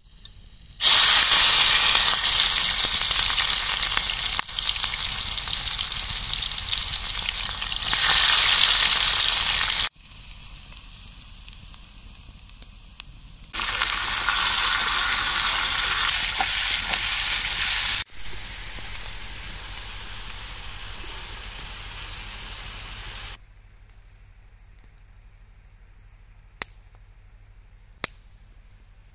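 Hot oil sizzling loudly in a small pan over campfire embers as mushrooms with chopped green chillies fry, in loud stretches that drop off abruptly. It goes quieter about two-thirds of the way in. Near the end there are two faint clicks.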